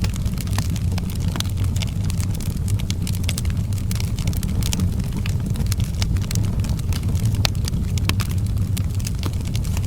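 Wood fire in an outdoor fireplace crackling, with frequent irregular sharp pops and snaps over a steady low rumble.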